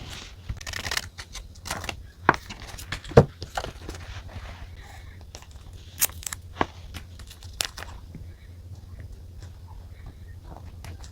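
Paper and stationery handled at a desk: rustling and crinkling with a stretch of tearing-like rustle about a second in, and scattered sharp taps and clicks, over a steady low hum.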